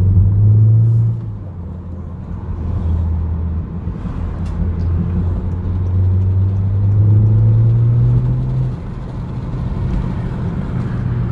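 Muffler-deleted exhaust of a 2019 Honda Accord Sport 2.0 turbocharged four-cylinder under acceleration, a deep tone that rises in pitch and falls back twice: about a second in and near nine seconds, as the automatic shifts up.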